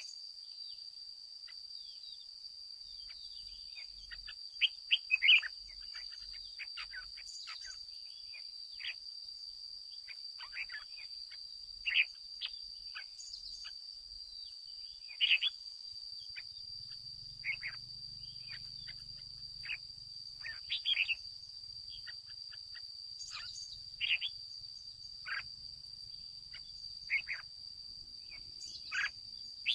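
Red-whiskered bulbul singing short, sharp chirping phrases at irregular intervals, over a steady high-pitched drone.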